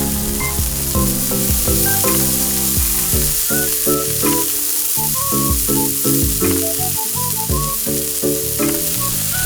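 Food sizzling and frying in a hot frying pan, a steady hiss, under instrumental background music with a melody that steps from note to note.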